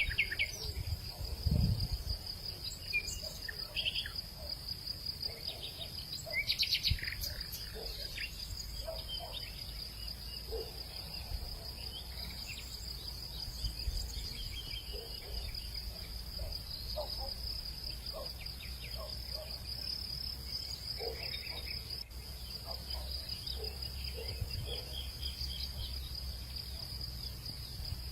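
Hillside insects, crickets by their sound, trilling in one unbroken high chorus, with scattered short bird chirps, a few louder ones several seconds in, over a low rumble.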